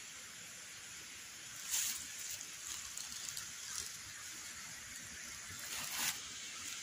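Steady outdoor hiss, with a brief loud rustle about two seconds in and another near the end, plus a few faint clicks.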